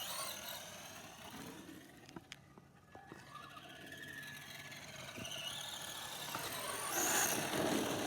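Electric motor of a Traxxas Slash radio-controlled truck whining as it speeds up and slows down, dipping a couple of seconds in, rising again about halfway through and loudest near the end.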